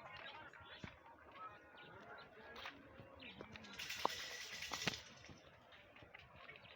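Chickens making soft, low clucking calls, with a few sharp taps and a brief rustling hiss about four seconds in.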